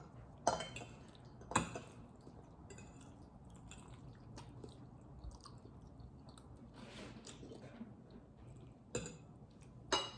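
Close-up wet chewing of creamy Alfredo spaghetti, with a steady scatter of small mouth clicks and four sharper clicks, the loudest near the end.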